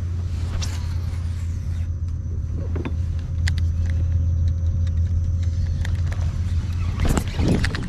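Steady low rumble with scattered light clicks, and a brief louder noise about seven seconds in.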